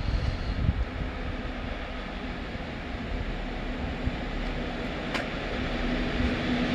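Electric locomotive hauling passenger coaches as it approaches: a steady hum and a low rumble from the track that grow louder towards the end, with wind gusting on the microphone in the first second.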